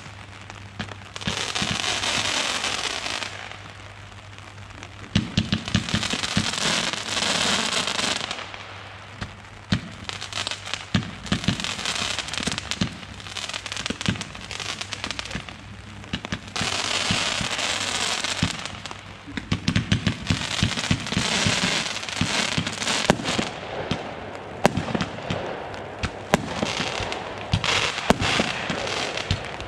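Consumer fireworks going off in rapid sequence: a battery firing shot after shot, with sharp reports, bangs and stretches of dense crackling hiss from crackling effects.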